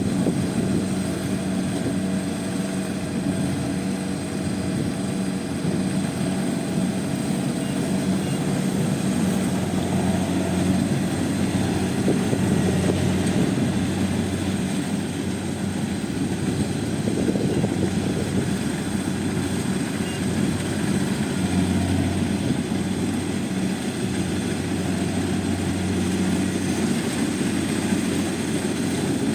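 Rice combine harvester running steadily, its engine droning at a constant pitch with the rattle of the machinery.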